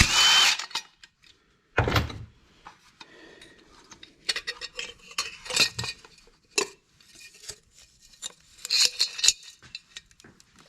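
Metal tools and parts clinking and clattering as the muffler is taken off a Husqvarna 345 chainsaw, in irregular short clicks with a louder clatter near the start and again about two seconds in.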